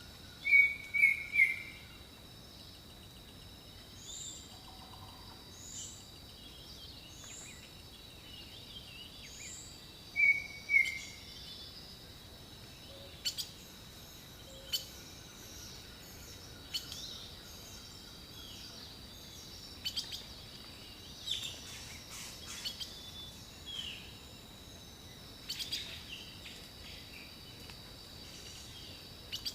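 Several jungle birds calling. The loudest are a quick three-note call right at the start and a two-note call about ten seconds in, with thin rising whistles between them and sharp chips through the second half. A steady high whine runs underneath.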